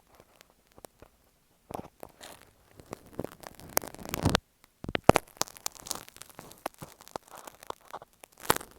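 Dressmaker's marking pins scratching and tapping directly on an earphone microphone, close and irregular: scraping strokes mixed with sharp clicks, the longest scrape building about four seconds in.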